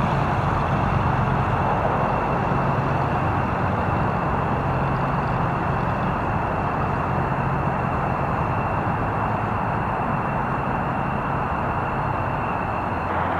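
F-15 jet engines running steadily at low power, a rumbling hiss with a thin high turbine whine that drops out near the end.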